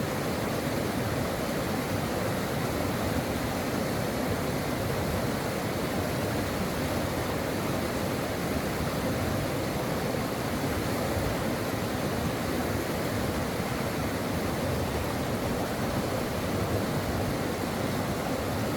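Stream water running in a steady, even rush, with no pauses or changes.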